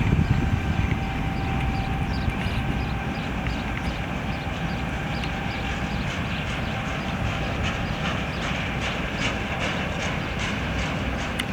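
Freight train rolling past, a steady rumble with repeated clicking of wheels over the rail joints.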